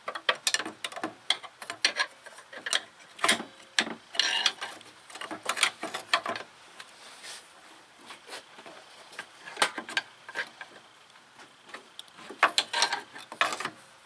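Cable-operated hose clamp pliers working the spring clamp on an upper radiator hose, making irregular metal clicks and short scrapes as the clamp is squeezed and moved.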